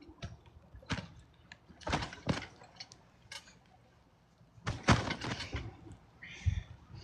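Trampoline mat and springs taking someone bouncing: irregular thumps with metallic rattles, in clusters, the loudest about five seconds in.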